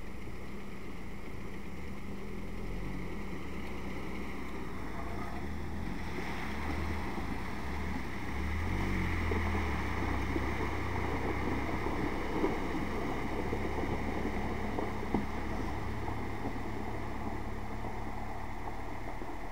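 A vehicle engine running steadily with a low rumble that swells for a few seconds. A couple of sharp knocks come through near the end.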